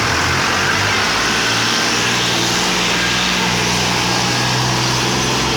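Massey Ferguson 385 tractor's diesel engine running steadily, its note settling into a clear, even pitch about a second and a half in.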